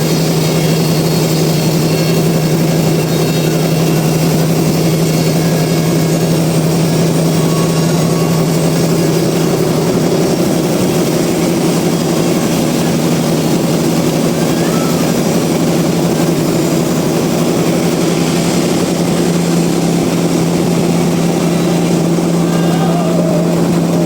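Sawmill machinery running with a steady, even hum.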